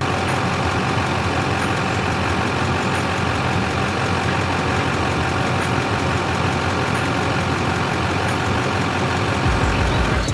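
A motor running steadily with an unchanging drone, like an idling engine.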